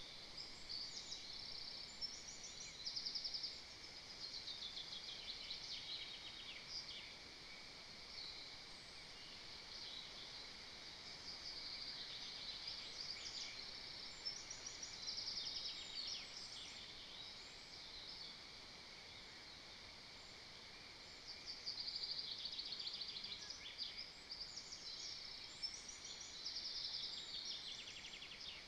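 Small songbirds singing in the surrounding forest: repeated phrases of rapid high notes and trills, some falling in pitch, over a steady hiss.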